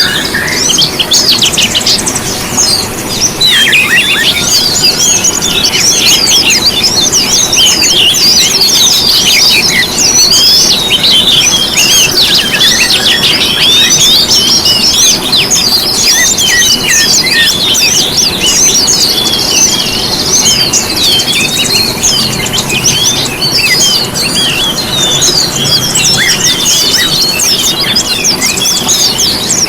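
Several small songbirds chirping and trilling at once in a dense, unbroken chorus of quick high notes. It is a bird-lure recording, played to set caged songbirds singing.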